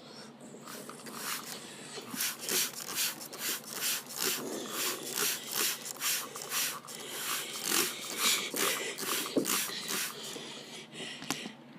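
Soft-cloth brushes of a Ryko Soft Gloss friction car wash swishing and slapping against a car, a regular beat of about two to three strokes a second that fades near the end.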